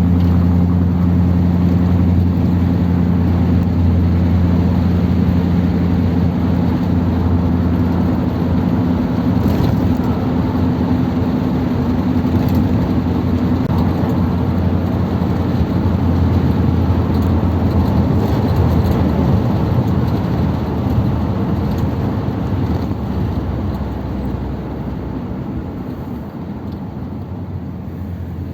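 Ford Thunderbird being driven, heard from inside the cabin: a steady engine hum with road rumble, the engine note fading into broader road noise about halfway through and the whole sound easing off near the end.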